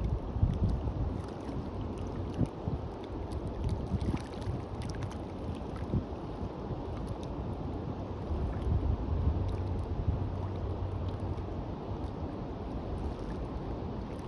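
Wind buffeting the microphone in uneven gusts over the steady wash of sea on a beach.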